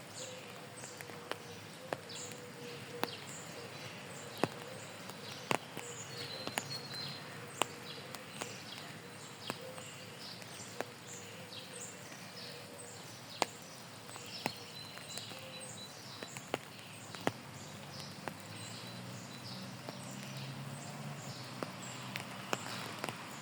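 Raindrops tapping irregularly in sharp single clicks, with a small bird chirping over and over in short, high notes.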